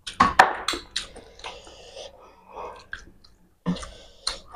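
People eating rice and fish curry by hand: chewing and mouth clicks, with fingers working rice on steel platters. There is a quick run of sharp clicks in the first second, a softer stretch after it, and two more sharp clicks near the end.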